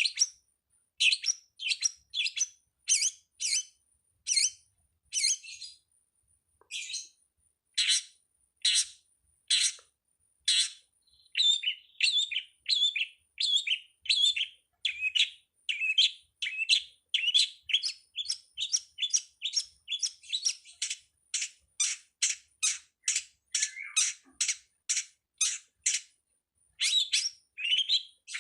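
Long-tailed shrike (pentet) calling: a fast series of short, sharp, scratchy chirps, about two a second, quickening to about three a second in the second half.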